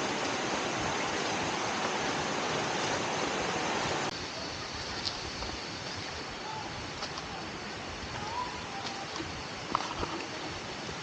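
Steady rushing of a forest stream or waterfall, a constant hiss of falling water. It drops to a quieter level about four seconds in, with a few faint chirps and clicks after.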